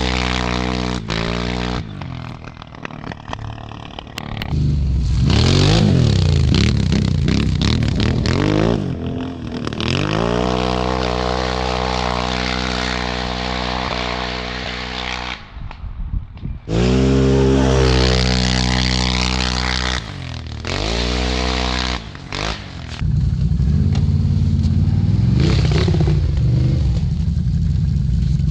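Can-Am Outlander 1000 ATV's V-twin engine running through an RJWC single aftermarket exhaust, revved up and down several times with stretches held at a steady speed. It briefly drops away about halfway through, then picks up again, and sounds rougher near the end.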